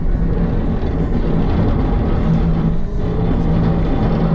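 Diesel engine of a CAT 906 wheel loader running steadily under work while plowing snow, a steady engine drone with a constant hum.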